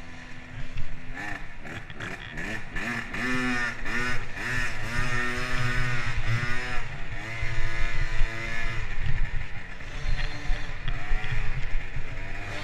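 Motocross dirt bike engine revving, its pitch climbing and dropping back again and again under changing throttle, then running at steadier speeds.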